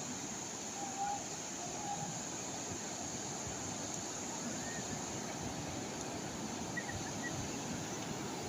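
Calm sea waves washing steadily against the shore, with a few faint short chirps about one and two seconds in and again near the end.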